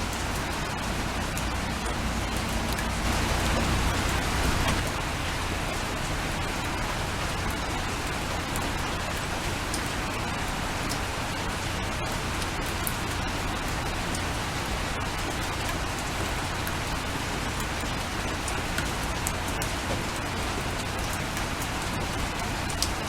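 Steady rain falling, a dense even hiss with the patter of individual drops. It swells a little louder for a couple of seconds about three seconds in.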